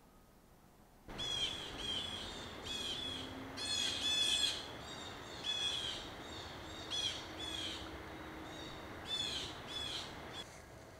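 Birds calling in autumn woodland: a run of short, high call notes repeated about once or twice a second. They start abruptly about a second in and stop shortly before the end.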